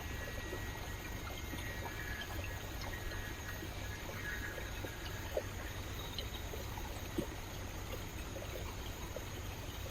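Rainforest stream water flowing and trickling steadily, with two brief plops about five and seven seconds in.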